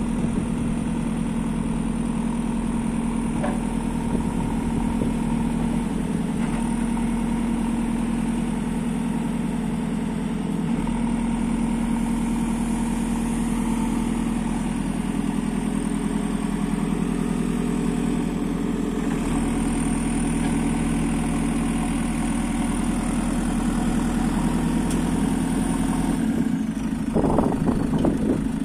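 Diesel engine of a JCB 3CX backhoe loader running steadily, with a faint high whine over it. Near the end there is a brief louder spell of surges and knocks.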